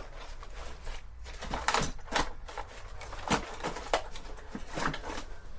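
Irregular clicks, knocks and light clatter of small tools and objects being moved about while rummaging for a marker.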